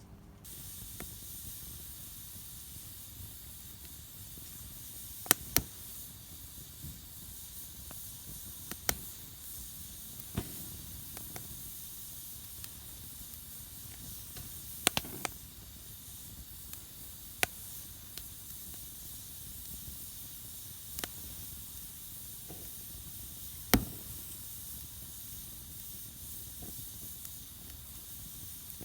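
Wood fire burning in a Solo Stove Campfire stove: a steady hiss of flame, with about ten sharp pops and crackles of burning wood scattered through it.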